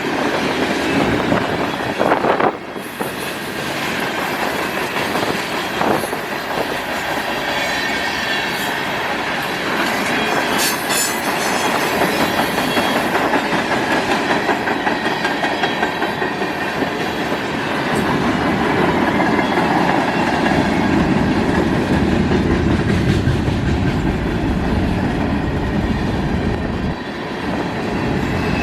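Freight cars of a manifest freight train rolling past, a steady rumble with the rhythmic clickety-clack of steel wheels over rail joints, growing louder in the last third.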